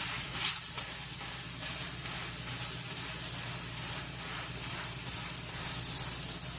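Oil sizzling under a lachha paratha frying in a hot pan, a steady hiss with occasional crackles.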